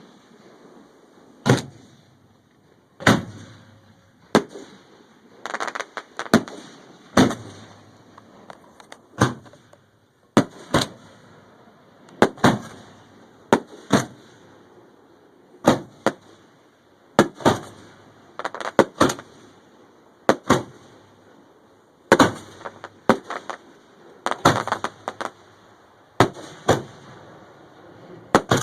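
Fireworks going off: a long series of sharp bangs at irregular intervals, some coming in quick clusters of two or three.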